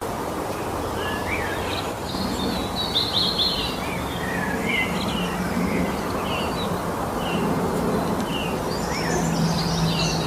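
Several songbirds singing in a spring forest, with short chirps and quick trills coming and going throughout, busiest about three seconds in and near the end. Beneath them runs a steady rushing background noise.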